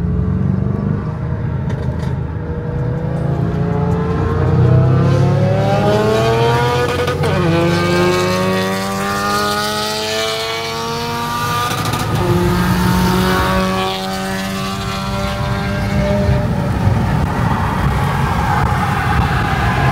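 Car engine accelerating hard under full throttle through the gears. The pitch climbs in long sweeps and drops at a gear change about seven seconds in and again around twelve seconds.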